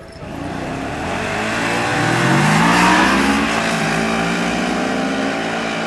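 Car engine accelerating hard, its pitch climbing over the first half and loudest about three seconds in, then holding steady at high revs.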